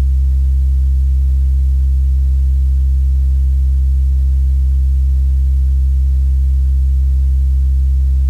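Looped sample of a Korg Monotron analog synth oscillator, played back in a sampler as one low, steady, unwavering tone rich in overtones.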